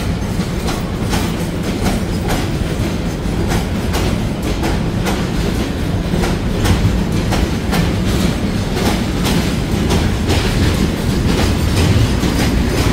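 Freight train of ballast hopper wagons rolling past. A steady low rumble is broken by wheel clacks over the rail joints, about two to three a second.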